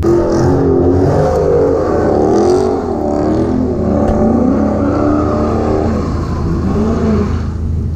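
Ford Mustang GT's V8 engine revving hard, its pitch swinging up and down repeatedly as the car is swung around, easing off near the end.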